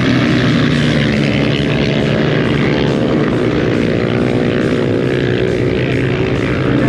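Racing motorcycle engine running with a steady drone.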